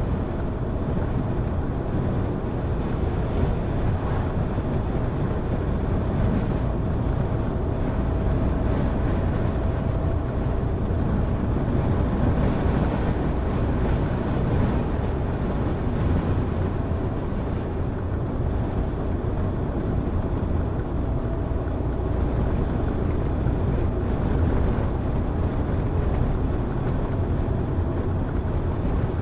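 Car driving at a steady pace: constant engine, tyre and wind noise with a low rumble and no sudden events.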